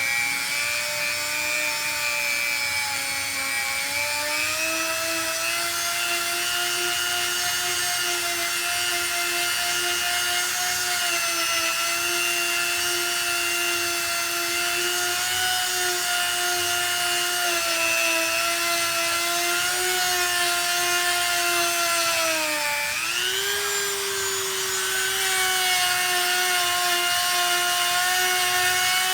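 A small high-speed power tool runs with a steady whine while grinding rust off an engine flywheel. Its pitch sags briefly under load about 23 seconds in, then picks back up.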